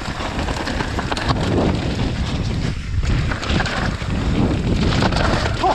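Wind buffeting the microphone of a mountain bike action camera during a fast descent of a wet, muddy trail, with a steady low rumble and scattered rattles and knocks from the bike over rough ground.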